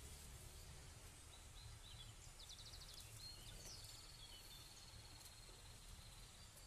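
Quiet outdoor ambience with faint bird calls: a few short chirps, then a rapid high trill lasting about three seconds, over a low steady rumble.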